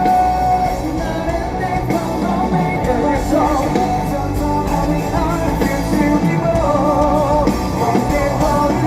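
Rock band playing live and loud, with singing.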